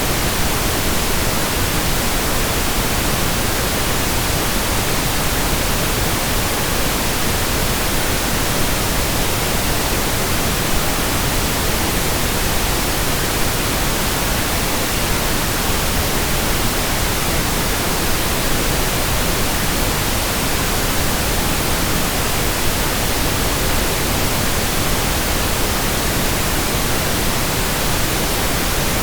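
Synthesized pink noise: a steady, even hiss with no changes.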